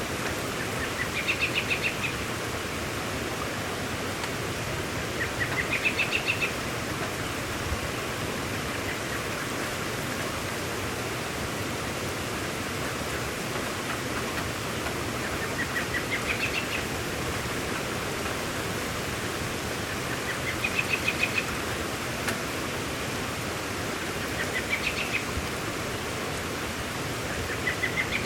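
Steady hiss of heavy rain, with a bird repeating a short song of rapid notes that rise in pitch, six times at intervals of a few seconds.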